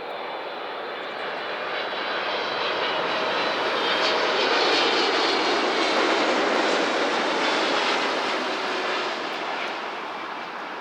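Jet airliner's engines passing by, the noise building to a peak about halfway through and then fading away.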